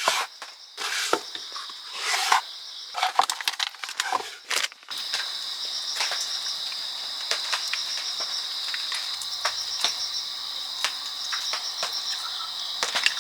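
A steady chorus of crickets trilling, with a cluster of sharp clicks and rustles from something being handled during the first five seconds.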